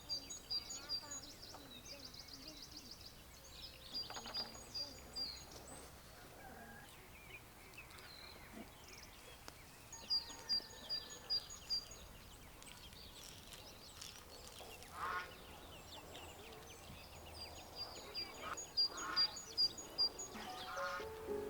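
Small birds chirping in quick series of short, high notes, several runs of them, with a buzzy trill a few seconds in and a couple of lower calls later on. Music comes in near the end.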